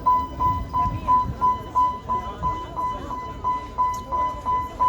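Level-crossing warning alarm beeping: a short, high electronic tone repeating about three times a second, steady and unbroken, with a low rumble underneath.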